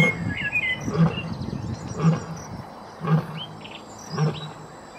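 Lion grunting in a slow, even series, about one deep grunt a second, growing fainter toward the end, as at the tail of a roaring bout.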